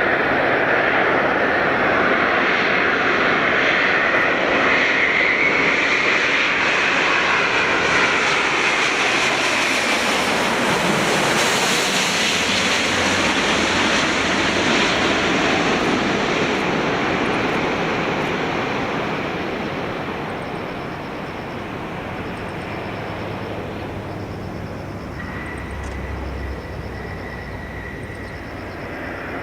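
Airbus A350's Rolls-Royce Trent XWB turbofans as the airliner passes low on final approach to land, a loud jet noise with a high whine that bends in pitch over the first several seconds, fading away over the last ten seconds or so.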